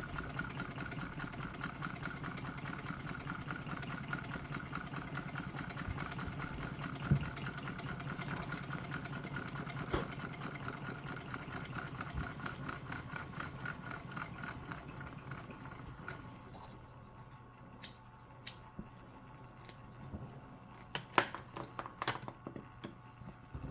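Alcohol-fired Stirling engine with a water-cooled piston running with a fast, steady, rhythmic clatter. About sixteen seconds in the running sound dies away, and a few sharp clicks follow.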